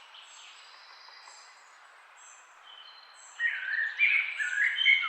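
Wild birds chirping in trees: faint, short high chirps over a steady hiss at first, then about three and a half seconds in a nearer bird breaks into loud song, a quick run of chirping notes that step up and down in pitch.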